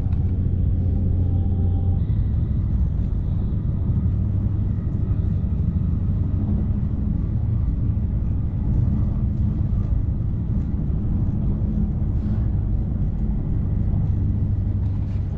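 Passenger train running at speed, heard from inside the carriage: a steady low rumble with a constant low hum.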